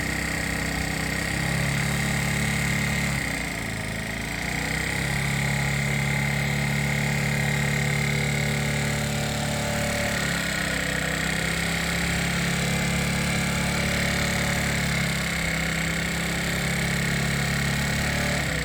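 Motorcycle engine running steadily at idle, easing off briefly a few seconds in and picking up again.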